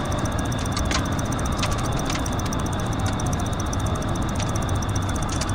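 Steady, deep noise of a vehicle in motion, with scattered faint clicks.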